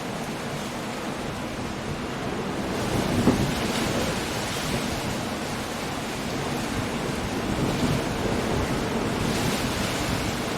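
Coastal storm: steady rain, wind and surf, with a rumble of thunder that swells about three seconds in.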